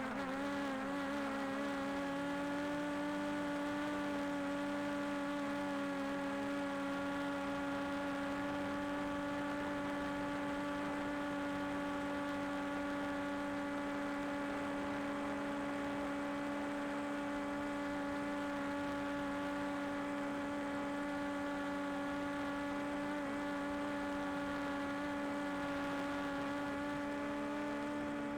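DJI Air 2S quadcopter's propellers whirring at a steady pitch as it hovers, one even, unchanging hum.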